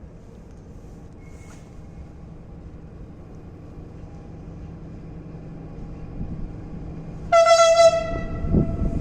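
ER20CF diesel locomotive approaching: a low engine rumble grows steadily louder, then a short horn blast about seven seconds in, followed by the heavier rumble of the train drawing near.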